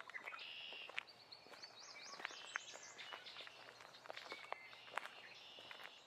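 Several songbirds singing faintly, with overlapping chirps and quick rising-and-falling whistles. Scattered crunching footsteps on the forest floor come through underneath.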